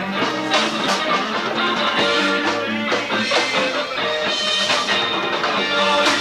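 Live rock band playing an instrumental passage: guitar, bass guitar and drum kit with bongos, at a steady beat.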